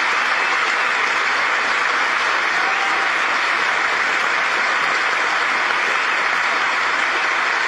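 Large audience applauding steadily, a dense even clapping that holds at one level throughout.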